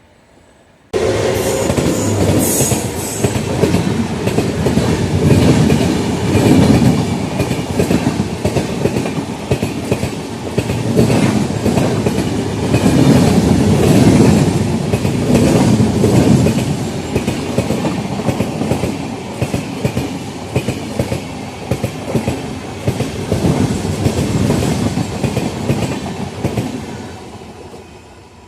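An Indian Railways train passing close by, its wheels clattering rapidly over the rail joints. The sound starts suddenly about a second in, swells and eases as the coaches go by, and fades away near the end.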